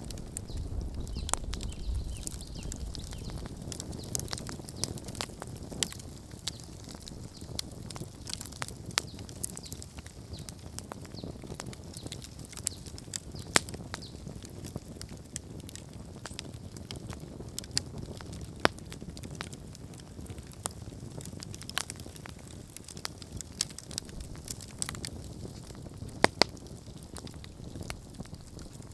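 Wood campfire crackling with irregular sharp pops, a few louder than the rest, over the steady low noise of the burning fire. There is a brief low rumble in the first few seconds.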